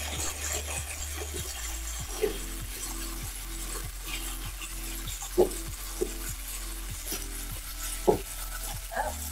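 Swordfish fillets and capers sizzling in hot olive oil in frying pans, a steady hiss with a few sharp pops now and then, the loudest about five and a half and eight seconds in. A plastic salad bag rustles as rocket is pushed out of it.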